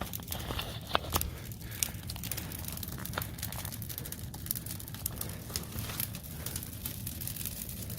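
Small wood fire crackling, with irregular pops and snaps, a couple of sharper ones about a second in.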